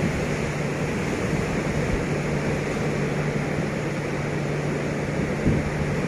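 SE1 passenger train hauled by a D19E diesel-electric locomotive, running steadily: a continuous noise with a low steady hum, and one brief knock about five and a half seconds in.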